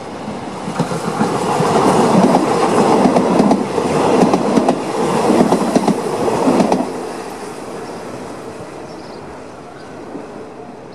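Diesel passenger train running close past: rumbling wheels with rapid clickety-clack over the rail joints, swelling to its loudest for several seconds. About seven seconds in the sound drops sharply as the last car goes by, then fades away.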